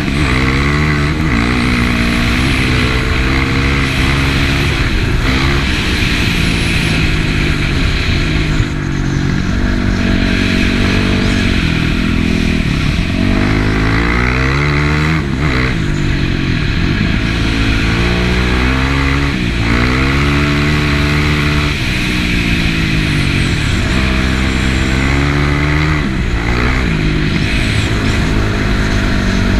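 Yamaha WR450F dual-sport bike's single-cylinder four-stroke engine under way, its pitch climbing and dropping over and over as the throttle is opened and closed through the gears, over a steady rushing noise.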